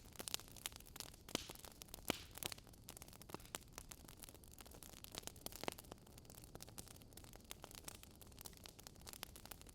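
Wood fire burning in a fireplace, crackling with frequent irregular snaps and pops over a soft hiss; the sharpest pops come about two seconds in.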